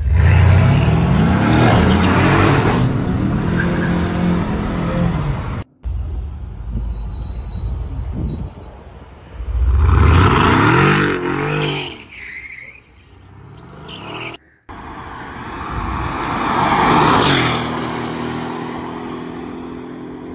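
Mercedes-AMG E63's 5.5-litre twin-turbo V8 revving hard in a string of short clips that cut off suddenly twice. There is a long loud run of revs at first, another sharp rev rising and falling about ten seconds in, and near the end a sound that swells and fades like the car passing by at speed.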